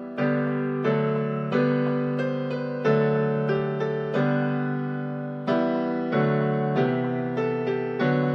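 Slow, gentle piano or electric-piano music: sustained chords and single notes, each struck and left to fade, a new note coming every second or so.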